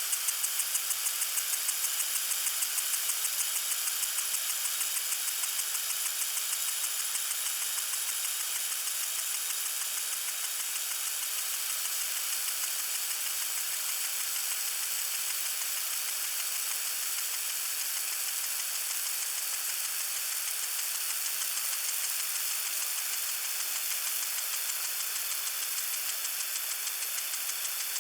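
Lawn sprinkler spraying water: a steady high hiss with an even pulsing, about two pulses a second.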